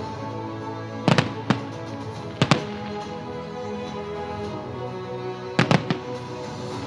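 Festive fireworks salute going off in sharp bangs, in three quick clusters: about a second in, at about two and a half seconds, and near the end. Music plays steadily underneath.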